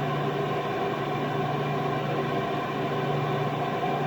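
Cooling fans of a 32-transistor CB linear amplifier running, a steady hum with a few constant tones.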